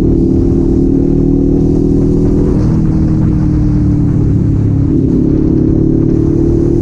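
Kawasaki Z400's parallel-twin engine and exhaust running while riding at a steady pace, its pitch shifting slightly about two and a half seconds in and stepping up again near five seconds.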